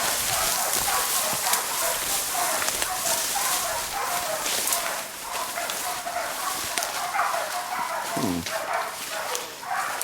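Bailing dogs barking over and over as they hold a feral pig at bay, with scattered crackles.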